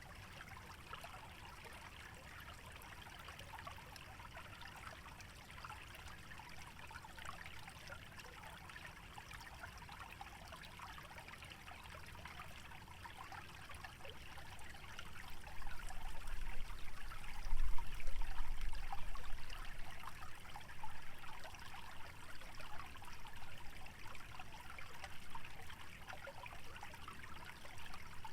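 Small wetland stream trickling steadily. A low rumble swells for a few seconds about midway through, then fades.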